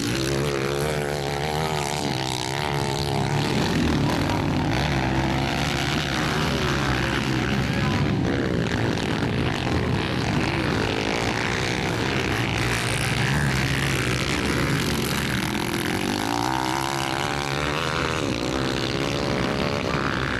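Several motocross bike engines running at race pace, their pitch rising and falling as the riders accelerate, shift and back off.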